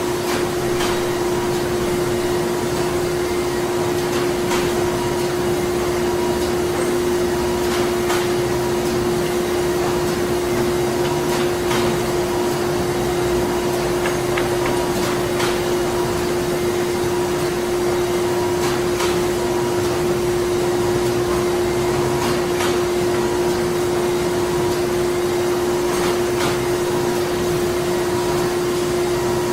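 Printing plant machinery running continuously: a steady mechanical drone with a strong constant hum, and faint clicks at irregular intervals.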